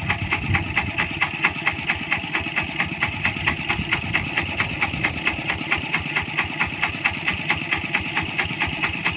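A small engine running steadily with a fast, even knock of about six beats a second.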